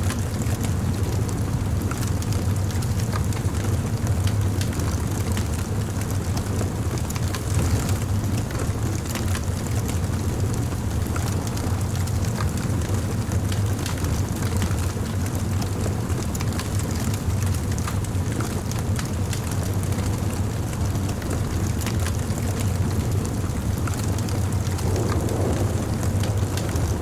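Bonfire burning: wood crackling with many small scattered pops over a steady low rumble.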